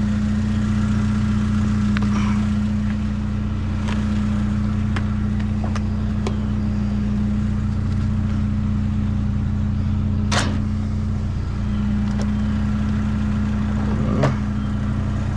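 A vehicle engine idling steadily with an even low hum, with a few sharp clicks and knocks over it, the clearest about ten seconds in.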